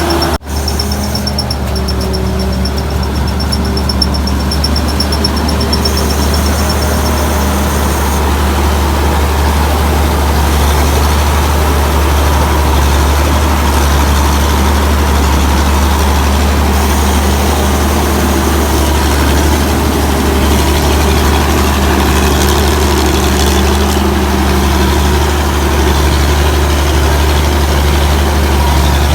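Hino J08C six-cylinder diesel engine of a Tamco Pro S9000 combine harvester running steadily, a deep even hum, with a split-second break just after the start.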